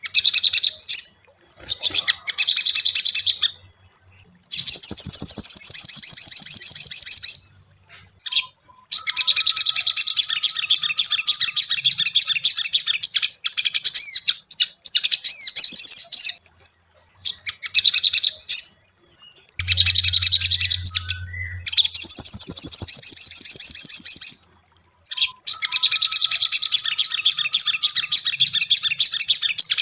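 Little spiderhunter (sogon) singing in bouts of rapid, high chittering notes, each bout lasting a few seconds with short pauses between.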